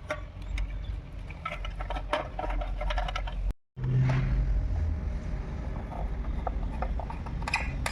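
Scattered small clicks, taps and scrapes of hand work over a low steady rumble, broken by a brief dropout to silence about three and a half seconds in.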